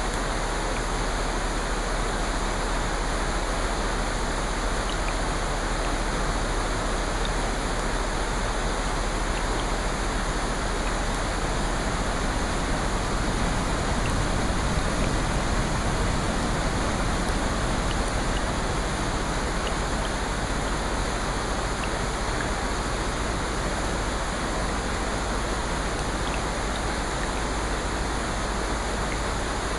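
Steady rain, an even rushing hiss of falling water.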